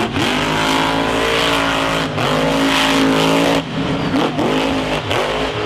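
Monster truck engine revving hard: it climbs and holds at high revs, eases off briefly about two seconds in, climbs again, then lets off sharply and gives a few short throttle blips near the end.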